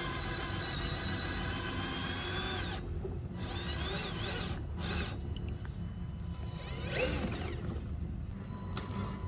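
Small electric motors and gearboxes of RC construction machines whining, the pitch wavering as they work. The sound changes abruptly about three seconds in, leaving a steadier, quieter whine.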